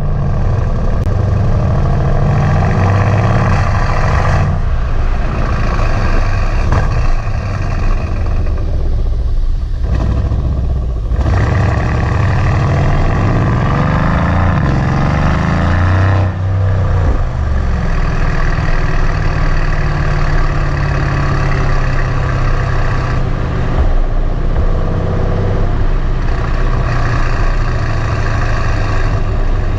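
Mercedes-AMG C63 S twin-turbo V8 running through its stock flap exhaust with the flaps open, loud throughout. The revs rise and fall several times, with short drops about four and a half, ten and sixteen seconds in.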